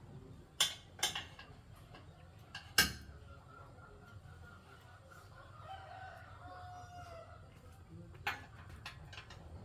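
A rooster crowing in one long drawn-out call in the background. Sharp knocks come three times in the first few seconds and once near the end.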